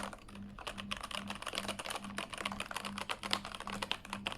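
Fast typing on a Keychron K8 hot-swappable mechanical keyboard with its stock keycaps: a dense, uneven run of key clicks. A faint low hum pulses about three times a second underneath.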